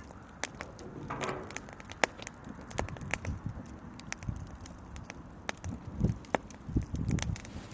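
Small wood campfire crackling, with irregular sharp pops and snaps. A few low dull thuds come near the end.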